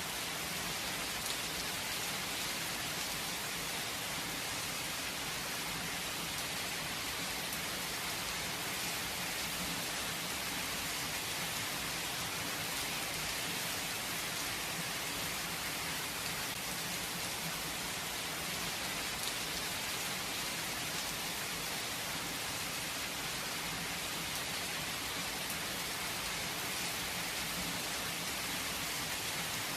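Steady rainfall without thunder: an even, unbroken hiss of rain, strongest in the high range.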